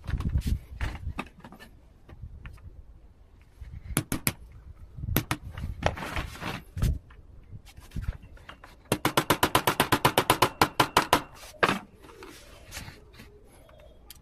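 Hand-repair noise from pliers and wire working on a plastic chair: scattered clicks, knocks and short scrapes, then a fast, even run of sharp clicks, about seven a second, lasting roughly three seconds.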